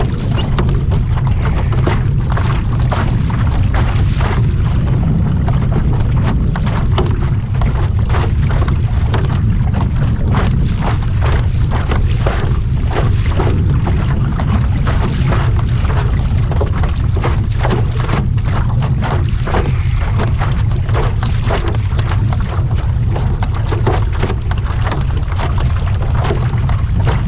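Steady wind buffeting the microphone, with many short ticks and small splashy sounds scattered throughout, as on a small kayak on open water.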